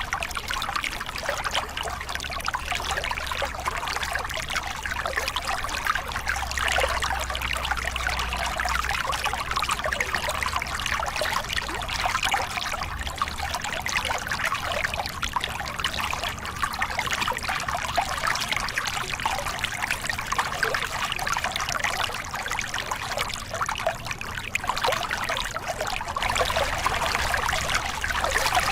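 Small river cascade: water splashing and pouring steadily over rocks, with a light low rumble underneath.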